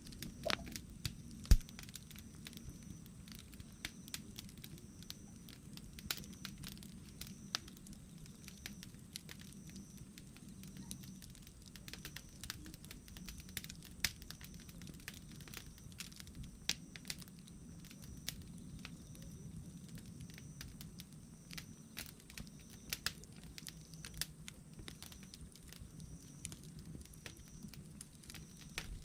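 Wood fire crackling, with irregular sharp pops and snaps over a low steady rustle of burning. One pop about a second and a half in stands out as the loudest.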